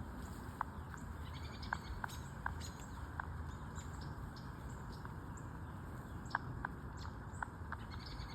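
A flock of American robins calling from a tree: many short, sharp call notes scattered irregularly, a few a second, over a steady low background rumble.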